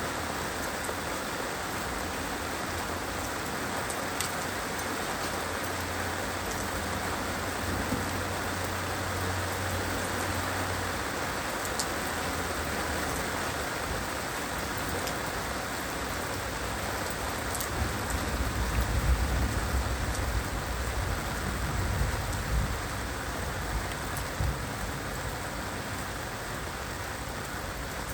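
Heavy rain falling steadily, with a low rumble of thunder about a quarter of the way in and a louder, longer rumble a little past the middle.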